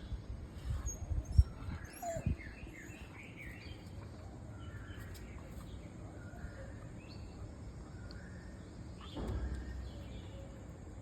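Small birds chirping repeatedly, with a few dull thumps in the first couple of seconds, the loudest about a second and a half in, and a brief low rumble near the end.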